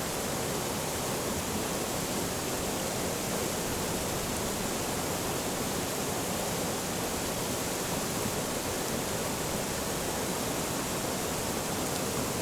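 Forest stream flowing over rocks, a steady even rushing of water.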